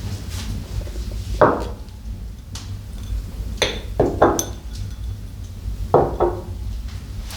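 Hard objects knocking and clinking together, about six sharp knocks each with a short ring, over a steady low hum.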